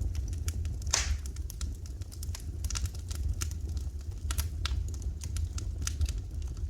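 Wood fire crackling in a fireplace: irregular sharp pops and snaps, one louder pop about a second in, over a steady low rumble.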